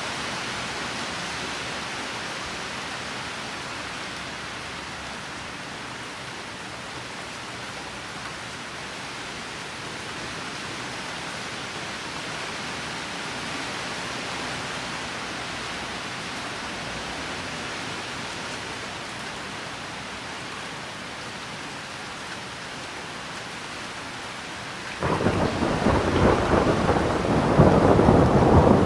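Steady rain falling, then about 25 seconds in a loud thunder rumble breaks in suddenly and keeps rolling.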